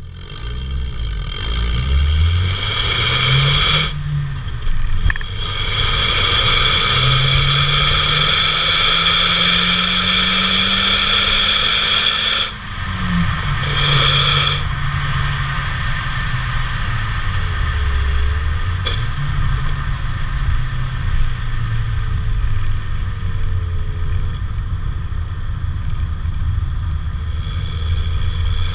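Opel Vectra B's 1.8 X18XE1 four-cylinder engine heard through a Novus aftermarket rear silencer while accelerating: the exhaust note climbs in pitch, breaks off at gear changes about 4 and 12 seconds in, then runs on at lower, varying revs, over steady road and wind hiss.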